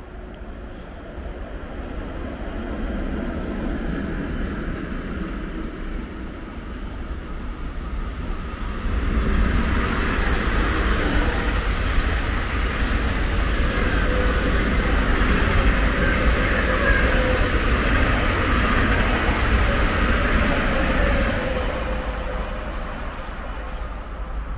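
A long passenger train passing along the tracks. Its running noise builds over the first several seconds and is loudest for about twelve seconds as the coaches go by, with a steady high rail hum, then it fades away near the end.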